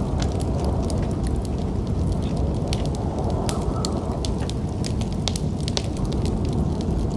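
Fireplace fire crackling, with irregular sharp pops scattered throughout, over a steady low rumble of snowstorm wind.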